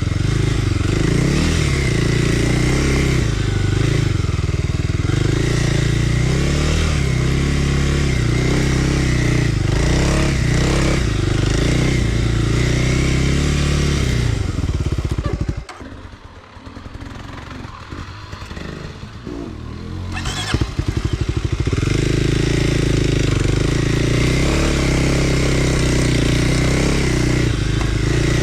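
Kawasaki KLX300R dirt bike's single-cylinder four-stroke engine running with the throttle constantly changing, its pitch rising and falling. About halfway through it drops to a low idle with slow, even firing pulses for about five seconds, then picks back up.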